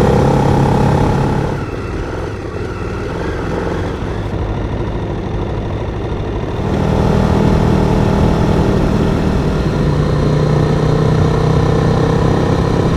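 Twin-cylinder adventure motorcycle engine running steadily, its pitch and level changing abruptly about one and a half and again about six and a half seconds in.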